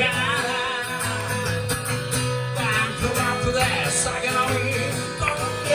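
Live band playing a rock-and-roll song, guitars to the fore over a steady bass, with some singing.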